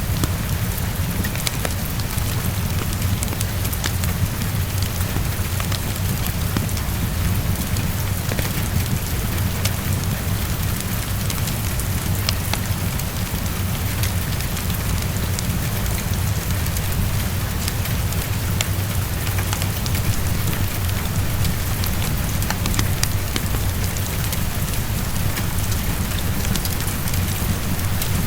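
Heavy rain pattering steadily on a window, with scattered sharp ticks and a fireplace crackling over a steady low rumble.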